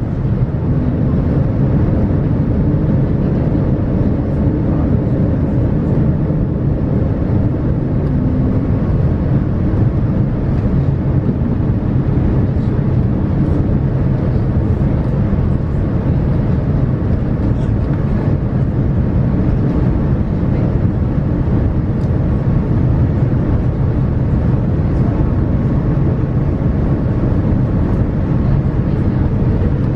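Steady cabin noise inside a Boeing 787-9 airliner: a deep, even rumble of engines and airflow, with a faint rising whine near the end.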